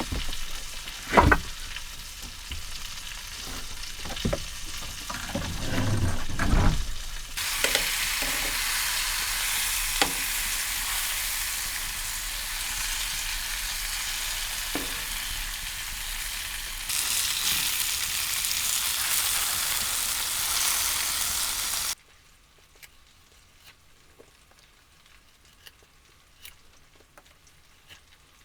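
Food sizzling in a frying pan, a steady hiss with a few knocks of a utensil in the first seconds. The sizzle cuts off abruptly about three quarters of the way in, leaving a faint background with scattered small ticks.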